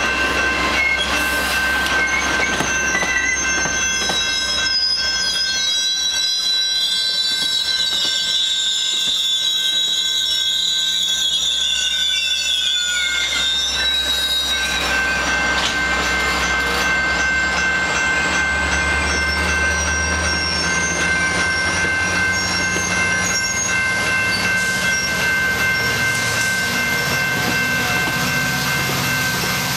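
GO Transit commuter train moving slowly: its steel wheels squeal on the rails with wavering high tones through the first half. A low diesel engine hum grows stronger about halfway through, alongside a steady high whine that slowly rises in pitch.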